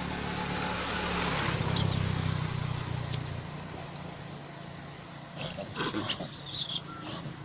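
Monkeys giving short, high-pitched gliding squeals, a few near the start and a burst of them late on, over the hum of a motor vehicle that swells about two seconds in and then fades away.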